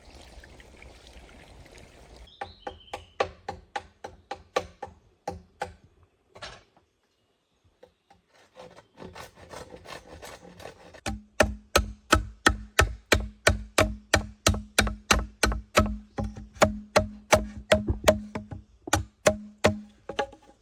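A tool striking wood again and again: lighter blows about three a second, a short pause, then from about halfway much heavier, evenly paced blows about two and a half a second, each with a low thud.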